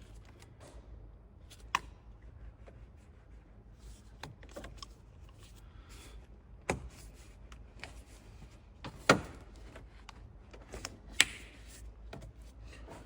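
Irregular sharp clicks and knocks of hand tools and hose clips as coolant hoses are worked off a car engine, with four louder knocks spread through it.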